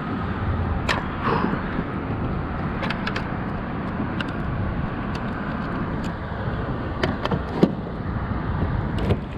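Steady wind rumble on the microphone over water lapping at the kayak, with scattered light clicks and knocks.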